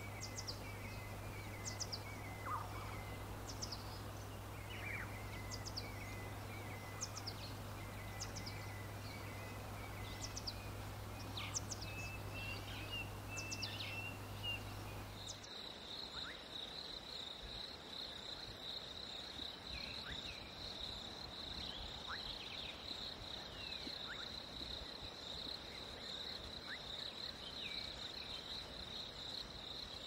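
Wild birds calling with repeated quick falling chirps and short trills over a low hum. About halfway through it switches abruptly to a steady, high-pitched insect drone, with a few bird chirps still over it.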